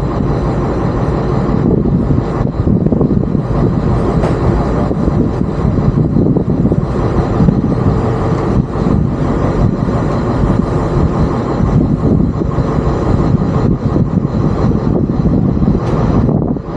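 Tour boat's engine running steadily, a loud, even drone.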